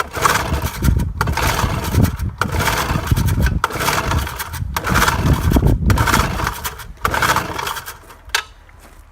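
Evinrude 4 hp outboard being pull-started by its recoil cord, about seven pulls a second or so apart, the engine turning over each time without catching. This is the first start after a head gasket replacement.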